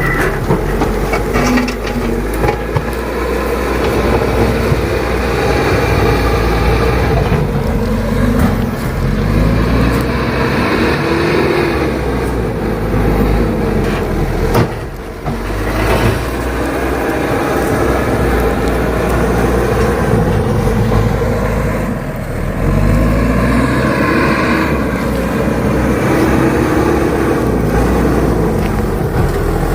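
Vehicle engine running steadily, its pitch rising and falling several times as it revs under changing load, with a couple of knocks about halfway through.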